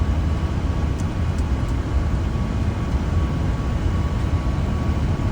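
Flight-deck noise of a Boeing 747-400 on short final approach: a steady low rumble of airflow and engines, with a faint high steady tone running under it.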